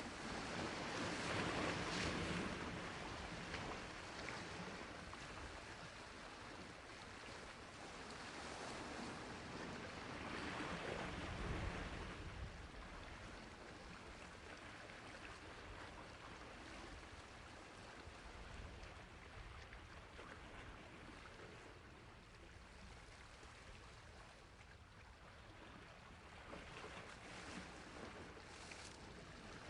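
Sea waves washing onto a shore, in swells: a wave breaks near the start, another about ten seconds in, then quieter wash with a small surge near the end.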